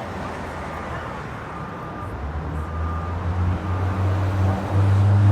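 Street traffic noise, with a motor vehicle's low engine hum coming in about two seconds in and growing louder.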